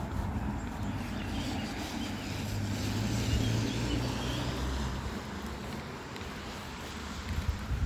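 A low motor hum that swells to a peak about three to four seconds in and then fades, like a vehicle passing by.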